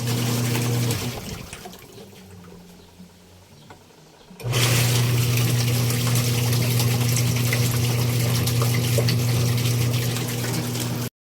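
Washing machine running with water in the tub: a steady electric hum under a swishing, rushing water noise. The hum stops about a second in and starts again about four and a half seconds in, then cuts off suddenly near the end.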